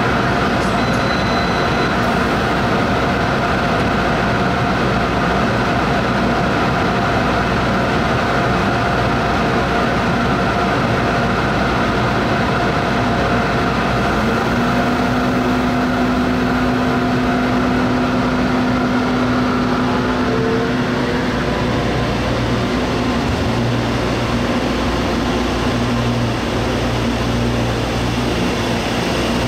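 Taiwan Railway electric commuter train at a station platform: a steady hum from the standing train. About two-thirds of the way through it starts to pull out, and a faint rising whine comes in as it gathers speed.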